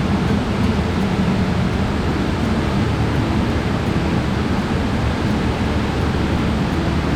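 Steady roar of a wide, sloping waterfall, water rushing and crashing over rock, heaviest in the low range.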